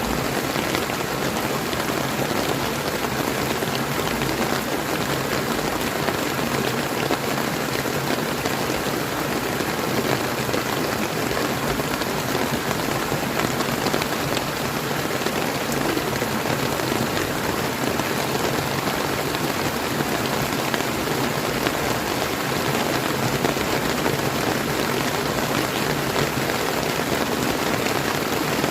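Steady rain falling alongside a flowing river, an even unbroken patter and rush.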